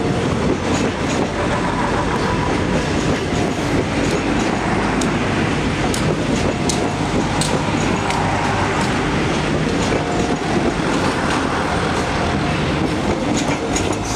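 Commuter train running through a station, its wheels clacking over the rail joints in a steady, loud rumble.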